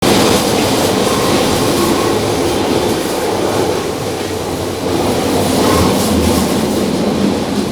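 Paris Métro train running, a loud, steady noise of the car and its wheels on the track.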